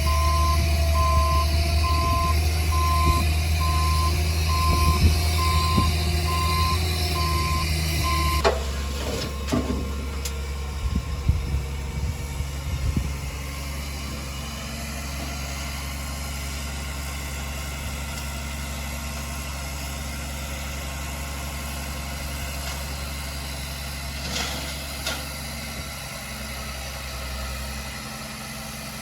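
Diesel engine of a heavy earthmoving machine running, with its reversing alarm beeping steadily for roughly the first third. The beeping stops abruptly and the engine runs on more quietly, with a few clanks just after and another couple later.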